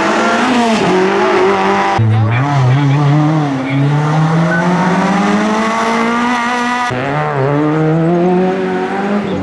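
Rally car engines running at high revs. In the middle section one engine's pitch climbs steadily for several seconds under hard acceleration. The sound cuts abruptly from one car to another twice.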